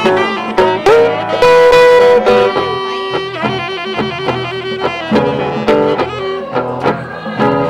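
Instrumental break in a blues song: a sustained, sliding lead line over guitar and bass, with no singing.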